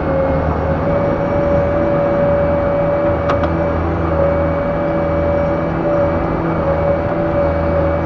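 LONKING CDM307 skid steer loader's engine running steadily, with a steady whine above the engine note.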